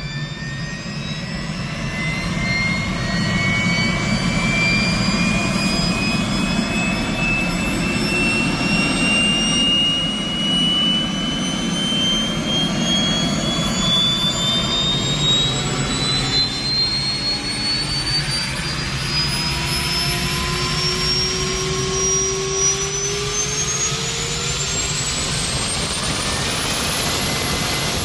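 Auxiliary power unit (APU) gas turbine starting and spooling up: a high whine that climbs steadily in pitch over a steady roar, then levels off near the end as the turbine reaches running speed.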